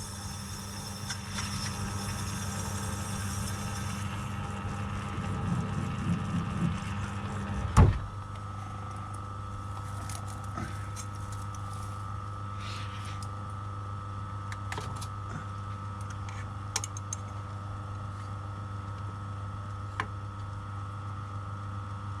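Milling machine running steadily while a boring head cuts out the inside of a nylon block, with a sharp knock about eight seconds in and a few faint clicks later.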